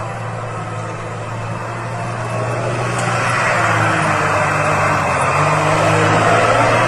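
Engine of a heavy snow-clearing machine running steadily, getting louder about two to three seconds in.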